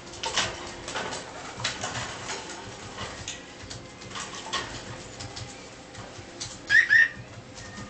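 Cockatiel making two short, loud chirps close together near the end, after a run of soft clicks and scratchy taps.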